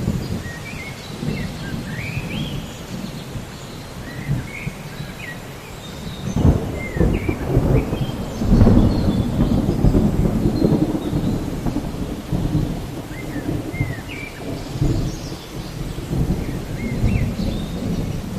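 Thunderstorm: steady rain with rolling thunder that swells into a louder rumble from about six to eleven seconds in, then eases off.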